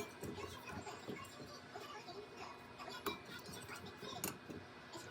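Small clinks and clicks of chopsticks or cutlery against dishes during a meal, scattered and irregular, with a couple of sharper clinks about three and four seconds in.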